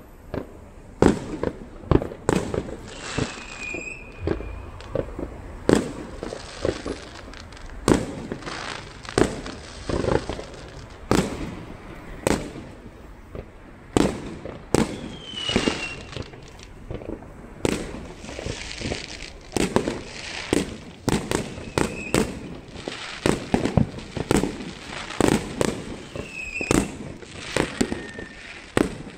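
Fireworks going off all around: dozens of irregular bangs at varying distances, some sharp and close, others duller and farther off. Between them come stretches of crackle and a few short falling whistles.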